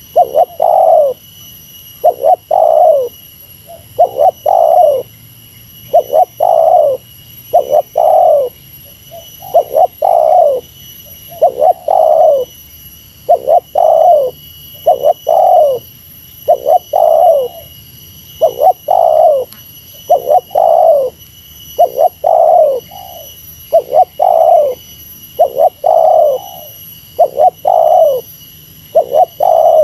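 Spotted dove (tekukur) cooing its 'meratus' call, a two-part coo of a short note then a longer falling note, repeated evenly about every second and a half.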